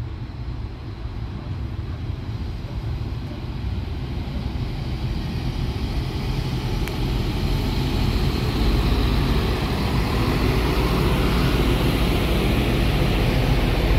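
NI Railways diesel multiple unit approaching and running past along the platform, its underfloor diesel engine rumble and wheel-on-rail noise growing steadily louder as it draws close.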